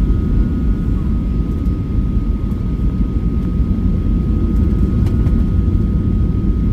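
Steady cabin noise inside a Boeing 737-800 airliner: the low rumble of its CFM56 engines and the airflow, with a thin steady whine above it.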